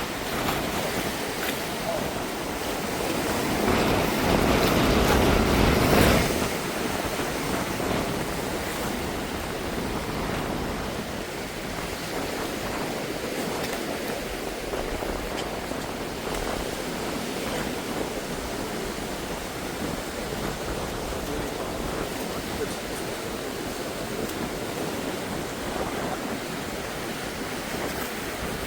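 Sea surf washing in steadily, with a louder rushing surge from about three to six seconds in that stops abruptly.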